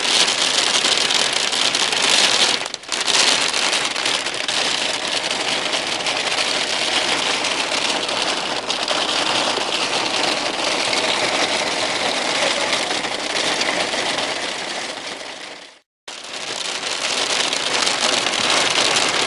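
Heavy rain drumming steadily on a car roof and windscreen during a severe thunderstorm. The sound breaks off briefly twice, near 3 seconds in and again around 16 seconds.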